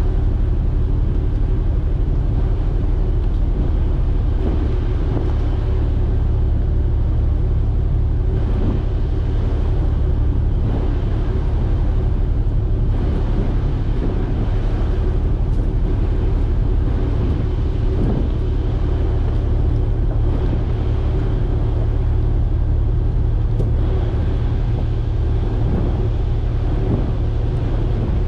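An engine running steadily at constant speed, a low even drone with a steady hum.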